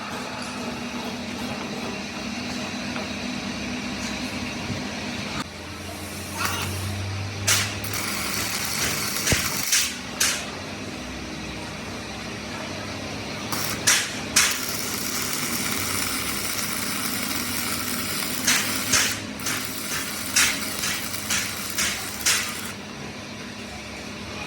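Workshop machinery running steadily with a low hum, broken by about a dozen short, sharp hissing spurts, several in quick succession near the end.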